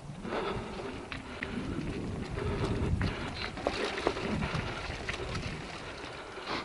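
Mountain bike moving over a rough, rocky dirt trail, with tyre and ground noise and irregular clicks and rattles from the bike as it goes over bumps.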